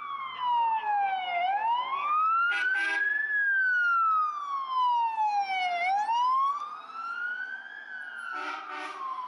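Fire apparatus siren wailing, rising and falling slowly about every four and a half seconds, with two short horn blasts, one near three seconds and one near the end. The siren grows fainter in the second half as the vehicle moves away.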